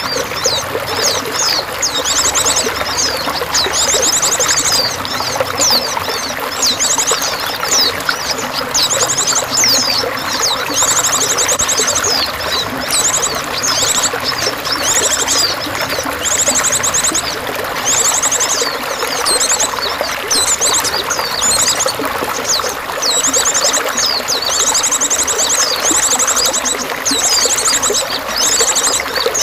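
Steady pouring, trickling water with songbirds chirping and singing over it, including repeated high, rapid trills of about a second each.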